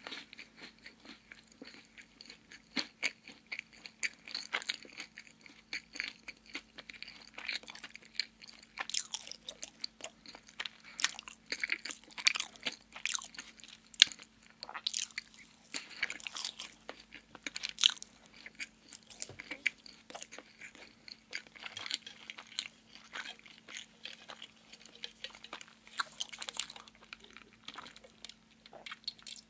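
Close-miked chewing of a soft chocolate-glazed donut, with many irregular sharp mouth clicks and small bites throughout.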